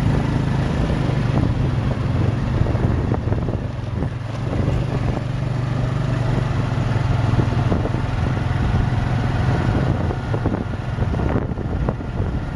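Small motorbike engine running steadily while riding, with wind buffeting the microphone and street noise.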